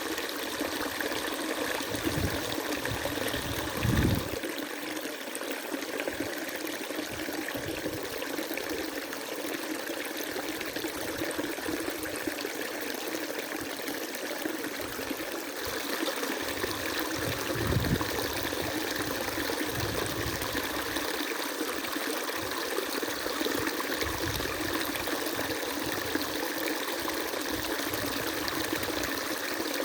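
River water flowing steadily, with a brief low thump about four seconds in and another a little past the middle.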